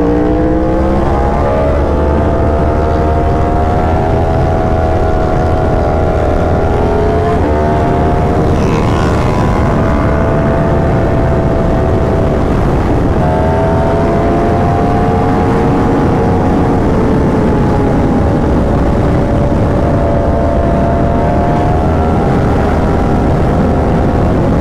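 Superbike engine running at riding speed, heard over steady wind rush on the rider's microphone; the engine pitch rises and eases a few times as the throttle changes.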